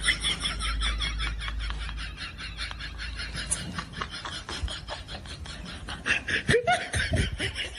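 A comedy laughing sound effect: a fast, stuttering run of laugh pulses, with a few short rising and falling vocal sweeps near the end.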